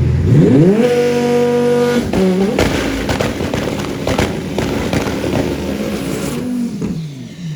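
Drag-race car engine revving up sharply and held at a steady high rev for about a second, then launching with a loud, ragged run that carries on for several seconds and fades near the end as the car pulls away down the track.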